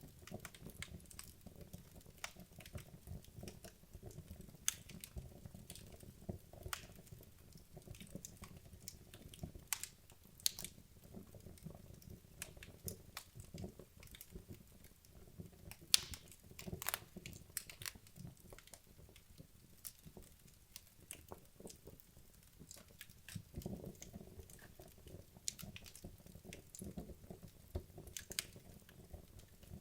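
Wood fire burning down in a fireplace: a soft low rumble with irregular crackles and snaps, a few sharper pops among them.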